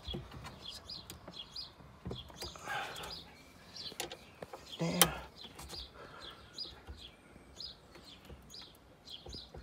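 A small bird chirping over and over, short high notes about twice a second, against the clicks and knocks of hardware being handled in a car's cargo area. A sharp knock about five seconds in is the loudest sound.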